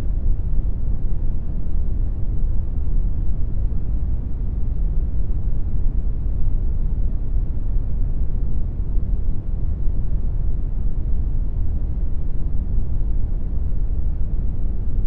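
Computer-generated brown noise: a steady, deep hiss with most of its weight in the low end and little treble, unchanging throughout.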